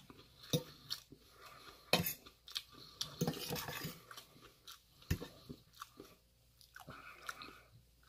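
A person chewing a mouthful of food close to the microphone, with scattered short clicks and scrapes of a metal fork against a metal bowl.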